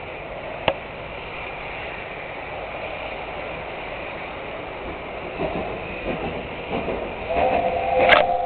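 Peckett steam tank locomotive starting a passenger train up a gradient: a steady rumble builds, then exhaust beats set in about five seconds in and grow louder and quicker. A brief steady two-note whistle sounds near the end.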